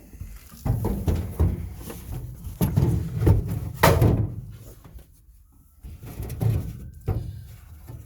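Irregular clunks and knocks of hard objects being handled and set down on a work surface, with one sharp knock about four seconds in.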